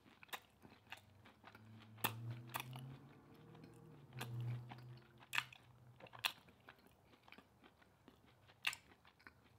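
Faint close-up chewing of food, with wet mouth clicks and small crunches scattered through. A low hum sounds for a few seconds near the middle.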